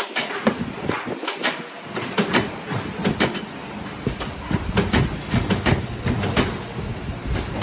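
Factory machinery and metalwork clatter: irregular sharp knocks and clicks, several a second, over a steady mechanical noise.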